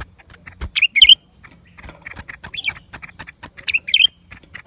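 Blue-winged leafbird calling: loud, sharp, squawky notes in short clusters, about a second in, midway and near the end, with many quick clicking notes between them.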